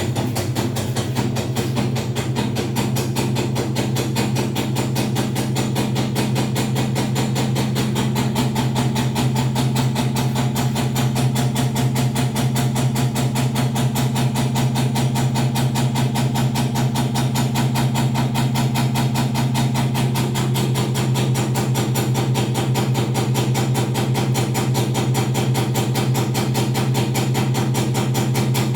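Panasonic NA-V170MDH front-loading washing machine with its drum turning, making a loud steady hum with a fast, even pulsing. It is an abnormal noise that is very loud during rotation on a machine a month old, even though the unit is levelled on a flat floor and a technician who opened it found nothing wrong inside.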